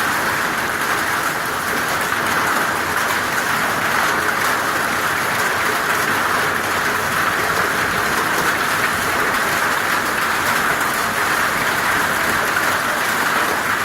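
Hail falling hard and steadily: a dense, even noise of many small impacts that does not let up.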